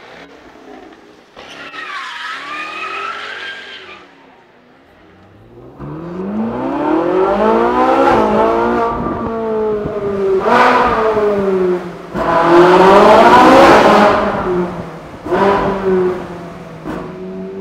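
Ferrari sports car's engine heard from inside the cabin in a road tunnel, revving hard through repeated rising pulls. Each pull ends in a sudden drop in pitch at a shift or lift, and there are sharp cracks at some of the drops and shorter throttle blips near the end. Before that comes a quieter stretch with a car engine gliding in pitch.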